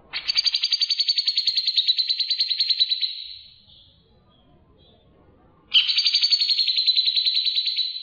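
A songbird giving two long, fast, buzzy chattering trills. The first lasts about three seconds; the second starts about six seconds in.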